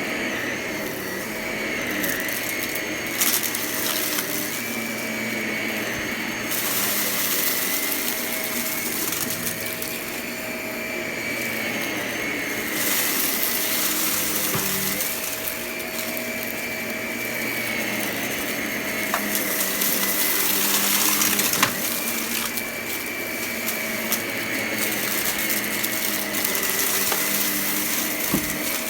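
Vacuum cleaner running steadily with a high motor whine, picking up crunchy debris. Several stretches of louder hiss and rattle come as debris is drawn in, with a few sharp clicks.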